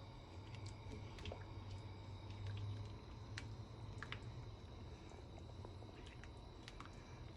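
Faint scattered clicks and soft pops from a pot of thick butter chicken sauce cooking on the gas, over a low steady hum.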